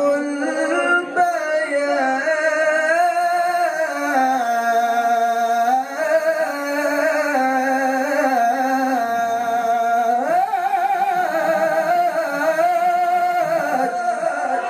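A male Quran reciter's voice in melodic mujawwad recitation, drawing out one long ornamented phrase with wavering, trilled pitch. The voice climbs higher about ten seconds in.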